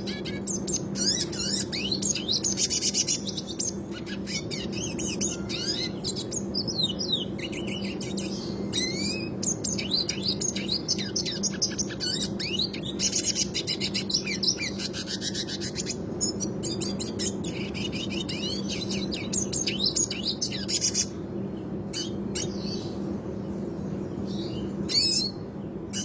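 Red siskin singing a fast, continuous rolling song of twittering chirps and buzzy trills. It breaks off about three quarters of the way through and gives one short burst near the end. A steady low hum runs underneath.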